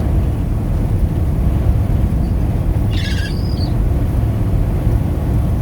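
Steady low rumble of a vehicle on the move, heard from inside, with one short high chirp-like squeak about three seconds in.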